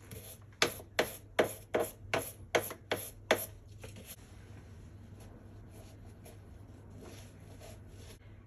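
A run of about eight sharp knocks, evenly spaced at roughly three a second, followed by faint scattered clicks.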